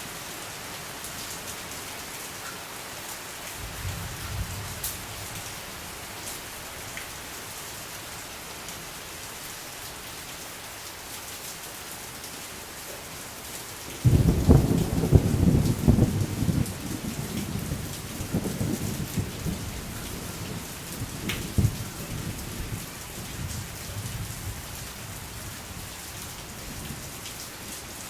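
Steady rain falling. A faint rumble of thunder comes about four seconds in. About halfway through, a loud thunderclap breaks suddenly and rolls on in fading surges for several seconds.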